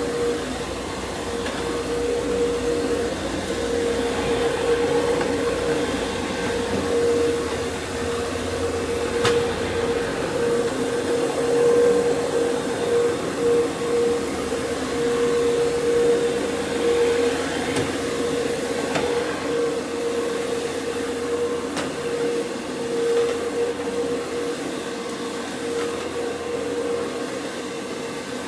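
Counter-rotating brush (CRB) carpet machine running steadily, its motor humming at a constant pitch as the brushes scrub the carpet.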